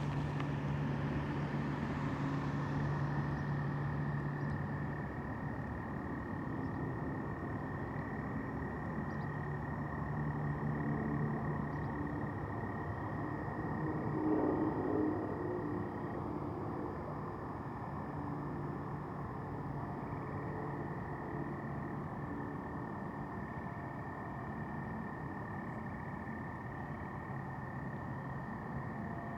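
A steady, unbroken high-pitched chorus of frogs or toads calling at night, over a low hum of distant traffic that swells briefly about halfway through.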